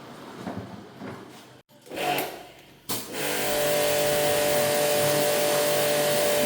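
An electric machine with a motor, such as a shop vacuum or blower, switches on about three seconds in. It then runs steadily with a hum.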